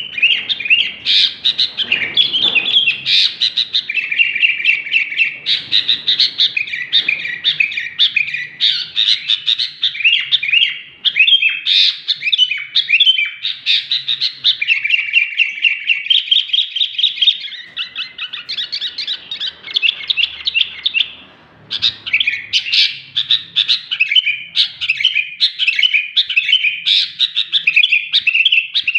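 Sooty-headed bulbul (kutilang) singing non-stop: a rapid, nearly unbroken stream of chirps and short warbled phrases, with one brief pause about three quarters of the way through.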